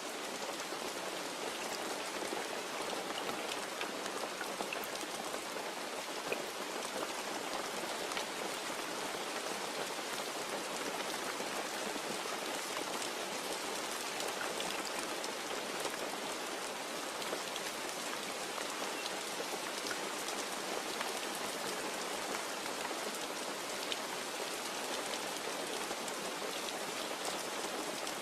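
Steady, even rain falling, with single drops ticking sharply here and there.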